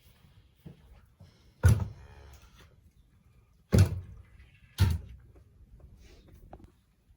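Three loud bangs: the first is followed by a brief ringing rattle, and the other two come about two seconds and three seconds after it.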